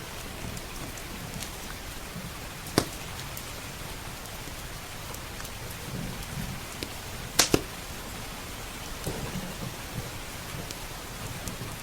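Steady heavy rain with low rolls of distant thunder, over a wood fire crackling with small ticks. A sharp loud pop from the fire about three seconds in, and a quick double pop about seven and a half seconds in.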